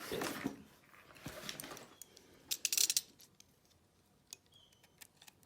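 A small mail package being handled and opened: rustling and crinkling of the packaging, loudest in a short burst about halfway through, then a few light clicks and taps.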